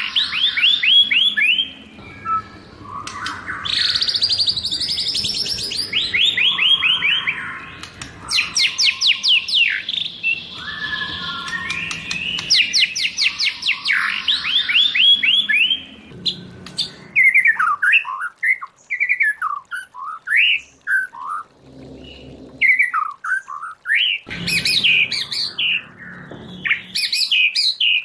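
White-rumped shama singing. For the first half it gives long runs of rapid repeated notes, each run falling in pitch; from about halfway it switches to varied whistled phrases.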